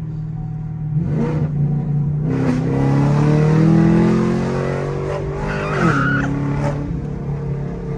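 Chevrolet Camaro SS 6.2-litre V8 accelerating hard, its engine note climbing steadily for about five seconds, then dropping abruptly about six seconds in and running on at a lower pitch.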